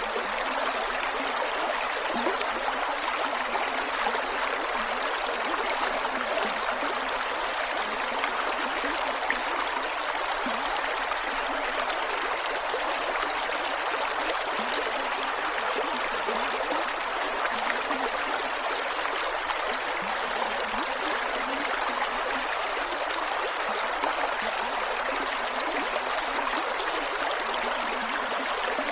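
Creek water flowing steadily over rocks, with small gurgles and trickles.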